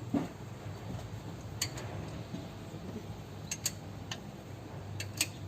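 A few sharp, irregularly spaced clicks, two of them in quick pairs, over a low steady hum.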